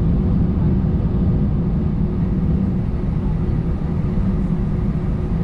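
Steady cabin noise inside an Airbus A320: a low, even rumble with a faint steady hum running through it.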